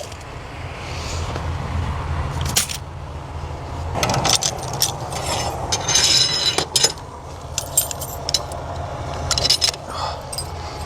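Keys jangling and scattered metal clicks and clinks, with a short ringing rattle about six seconds in, as a car wash coin box is unlocked and its coin bucket handled. A steady low hum runs underneath.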